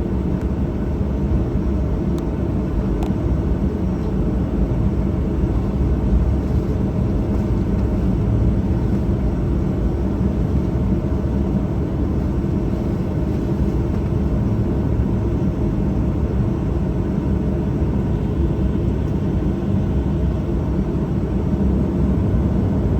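Cabin noise of a Boeing 737-800 on the ground just before takeoff: a steady low rumble from its CFM56-7B engines at low power and the airframe, holding level without rising.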